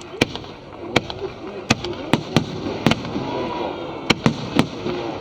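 Aerial fireworks bursting in quick succession, about ten sharp bangs over five seconds, some with a short echo, over the murmur of crowd voices.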